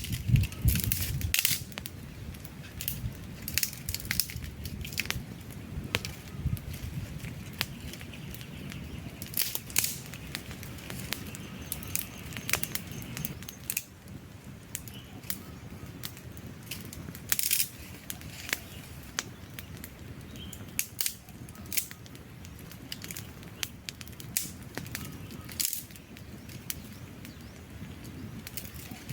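Wood fire crackling, with sharp pops and snaps at irregular times over a soft, steady rush of flame.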